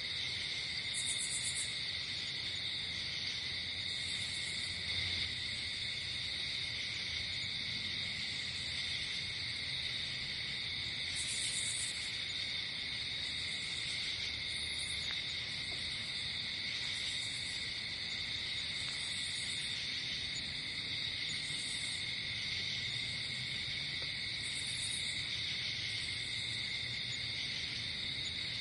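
Night insect chorus: crickets trilling steadily and without a break, with short, higher-pitched buzzes from another insect every two to three seconds.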